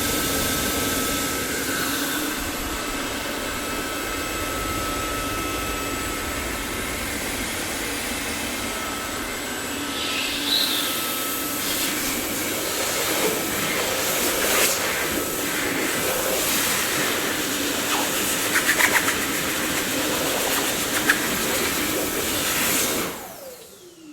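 Dyson vacuum cleaner running with a steady airy whine, with a few clicks and rattles in its second half. About a second before the end it is switched off and the motor starts to wind down with a falling whine.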